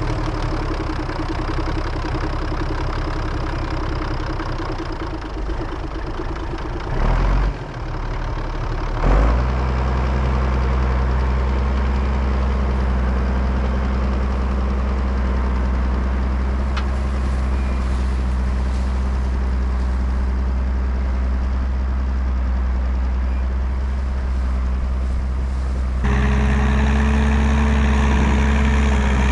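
Zetor 16145 tractor's turbocharged diesel engine running through a straight pipe, a steady deep drone. There are two brief loud knocks about 7 and 9 seconds in. Near the end it gets louder and a steady higher tone joins in.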